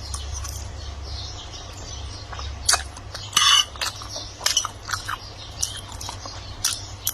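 Someone eating a meal: a spoon and utensils clinking against dishes and bowls, with mouth sounds of eating, as an irregular string of short clicks over a low steady hum.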